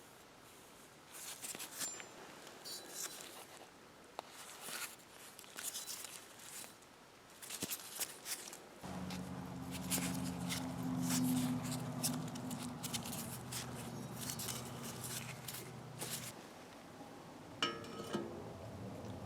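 Metal tools and parts being handled during a wheel bearing job: scattered clinks and knocks, then a steady low mechanical hum with clicking over it for about seven seconds, and a short metallic ring near the end.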